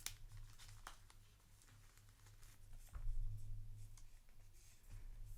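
Trading cards handled by hand: a few soft clicks and slides as cards are moved through a pack, over a low steady hum.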